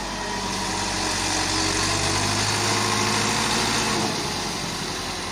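Tractor engine running steadily, its note growing louder and then easing back about four seconds in.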